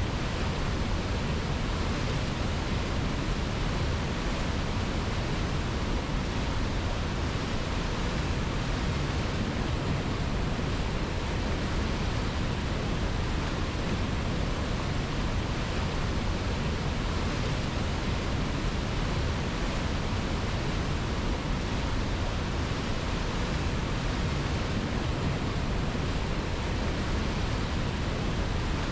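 River water rushing in a steady, unbroken hiss, with no changes or separate splashes.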